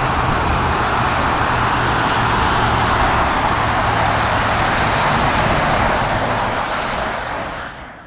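Loud, steady rushing noise of a train passing close by, with a low hum underneath. It starts suddenly and fades away near the end.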